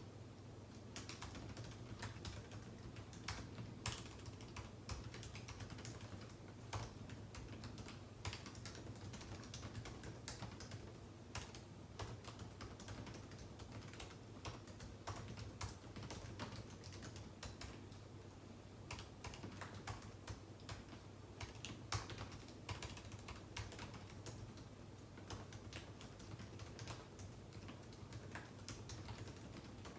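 Computer keyboard typing, quick runs of key clicks with short pauses, starting about a second in, over a faint low steady hum.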